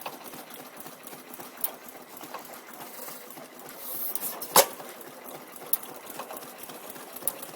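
Antique 12 hp International Famous hit-and-miss gasoline engine running with a steady mechanical clatter, and one sharp click about four and a half seconds in.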